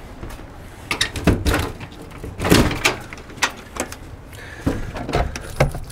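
Old screen storm door and a wooden panel door being handled: a run of clicks, knocks and rattles as the latch is worked and the doorknob is tried, the loudest knock about halfway. The inner door is locked.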